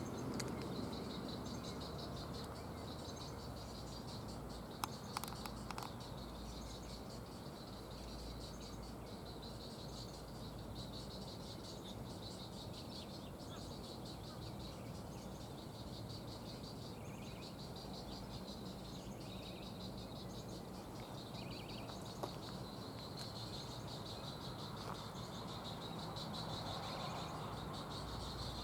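Steady, pulsing insect chorus trilling over low outdoor rumble, with a few sharp clicks about five seconds in.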